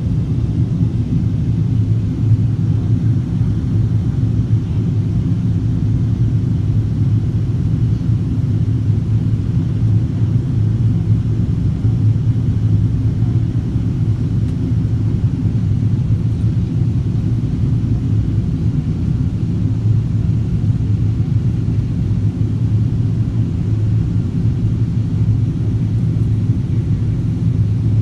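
Steady low rumble of engine and airflow noise heard inside the cabin of a Boeing 777-200ER in flight, with a few steady low hum tones and no change in level.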